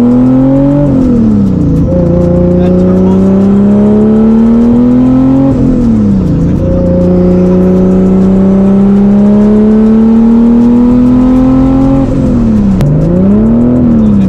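Turbocharged 1JZ inline-six in an FR-S, heard from inside the cabin, pulling up through the revs in long steady climbs. The pitch drops sharply at each upshift, about a second in, near six seconds and about twelve seconds in, followed by a short rise and fall near the end.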